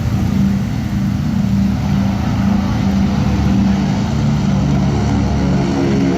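Lockheed Super Constellation's Wright R-3350 radial piston engines running with a steady, loud, low propeller drone.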